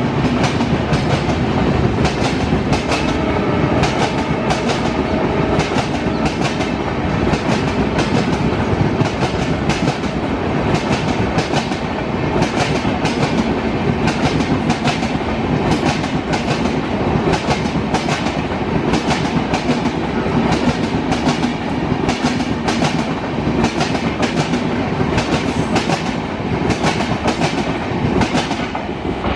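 Passenger coaches of an Indian Railways express train running past at speed, their wheels clattering over rail joints in a steady, repeating clickety-clack. A horn trails off just at the start.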